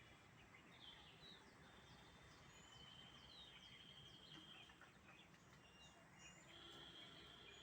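Faint birdsong over a low outdoor hiss: scattered short, falling chirps, with a longer trilled note in the middle and another near the end.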